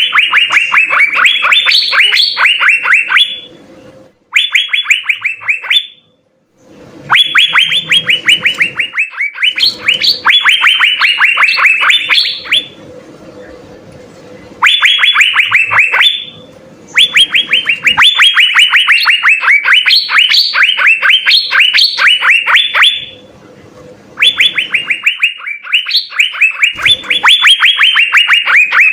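Asian fairy-bluebird (cucak biru) singing in long phrases of rapid, falling whistled notes, about four a second, broken by short pauses.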